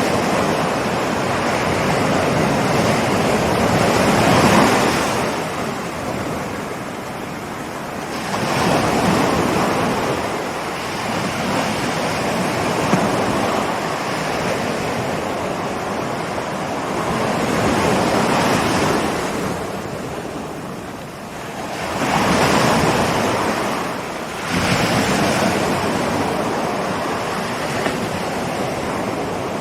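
Ocean surf: waves rolling in and breaking, the rush of water swelling and easing in surges a few seconds apart.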